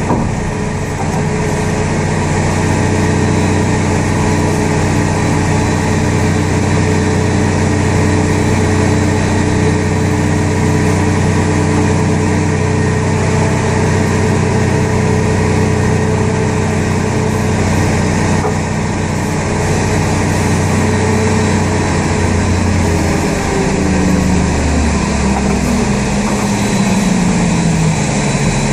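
Pushback tug engine running steadily under load, a drone with several held tones; about two-thirds of the way through its pitch drops over a few seconds as the engine slows.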